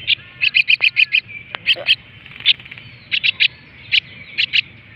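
Common myna (shalik) chick giving short, sharp begging calls while being hand-fed: a quick run of about six calls near the start, then single calls and pairs of calls at irregular intervals.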